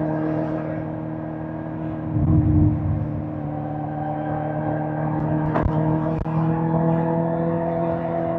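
Suzuki GSX-R1000 K5's inline-four engine running at fairly steady revs on the move, with a surge of low rumble about two seconds in and two sharp knocks a little past the middle.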